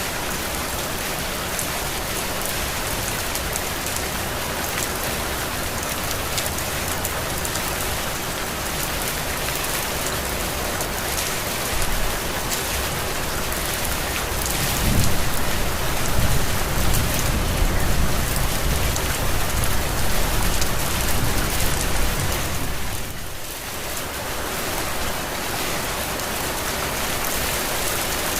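Heavy rain falling steadily, a dense even hiss. About halfway through, a low rumble swells for several seconds under the rain and then fades.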